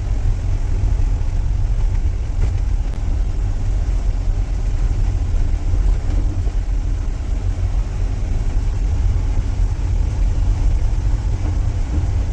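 Steady low rumble of a car on the move: engine and road noise, unbroken throughout.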